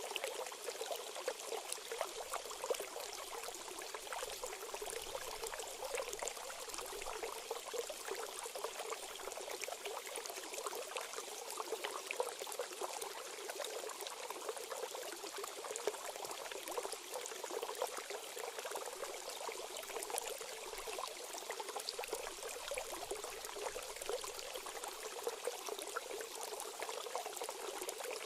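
Stream water flowing steadily, a constant rushing and trickling with fine splashy crackle and little low rumble.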